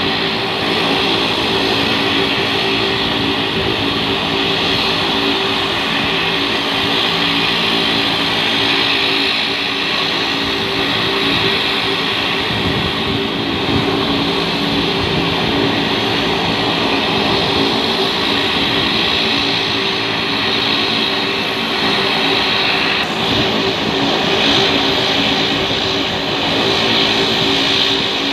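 Aircraft engines running at a steady, unchanging pitch.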